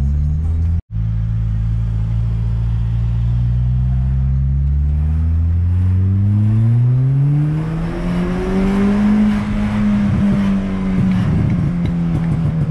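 Peugeot 206 RC's 2.0-litre four-cylinder engine heard from inside the cabin, pulling up steadily through the revs for several seconds, then easing off slightly and holding a steady note near the end. The sound cuts out for a split second just under a second in.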